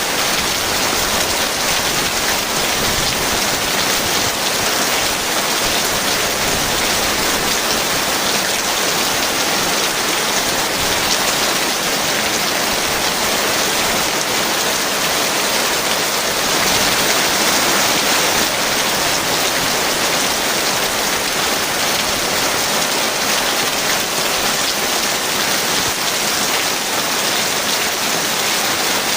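Heavy rain falling steadily as a dense, even hiss, swelling slightly a little past the middle.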